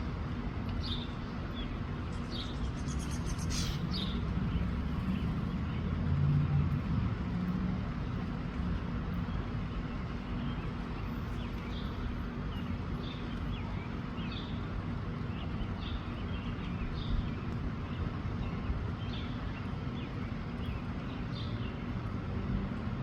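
Wind rumbling on the microphone, with small birds chirping in short, scattered calls throughout.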